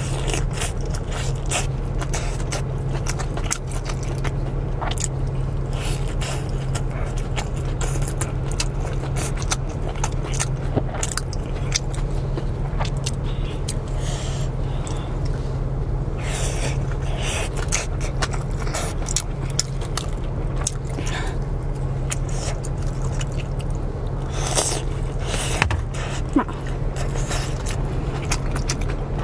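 Close-miked eating of a bowl of spicy noodles: chewing with many short wet clicks and a few louder slurps, over a steady low hum.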